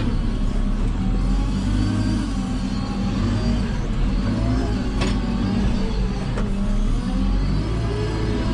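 Diesel engine of a JCB 3CX backhoe loader running under working load, its pitch rising and falling as it revs, with a sharp knock about five seconds in and another soon after.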